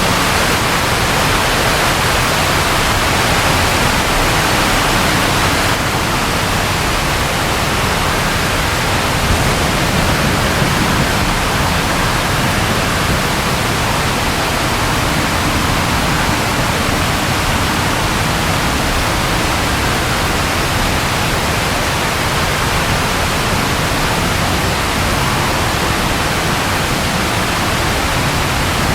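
Steady, continuous rainfall, an even hiss with no breaks.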